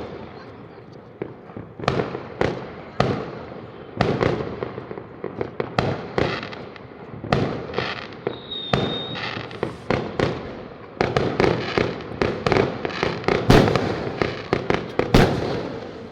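Fireworks going off all around in a rapid, irregular string of sharp bangs over steady crackling, growing denser and louder in the second half. A short high whistle sounds about halfway through.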